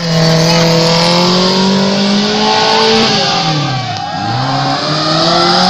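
Car engine revving under hard acceleration. Its pitch climbs for about three seconds, falls away, then climbs again near the end.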